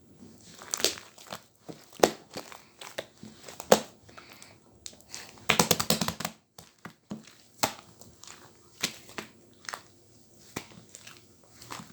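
Slime being squeezed and pressed by hand, giving irregular sharp crackles and pops, with a dense run of crackling about halfway through.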